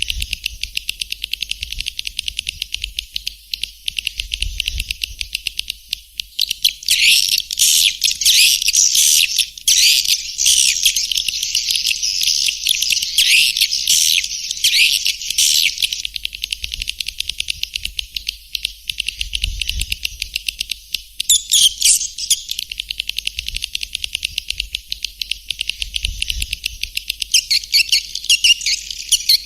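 Swiftlet lure call recording: rapid, high twittering chirps of many swiftlets, of the kind played to draw the birds into a nesting house. The chirping thickens and grows louder about a quarter of the way in, then comes in further dense bursts near the end.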